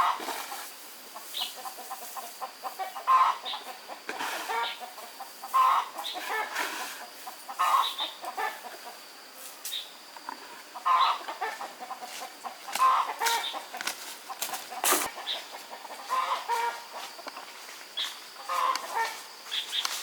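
Chickens clucking, short calls repeating every second or two.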